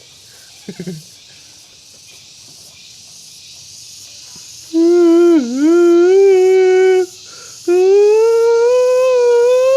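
A person humming long held notes, starting about halfway through: one steady note with a quick dip in pitch, a short break, then a second note that rises slowly. The first half is a faint steady hiss.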